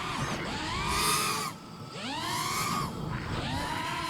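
FPV quadcopter motors whining, their pitch swinging up and down about four times as the throttle is punched and cut through a flip trick, with a short drop in level about one and a half seconds in.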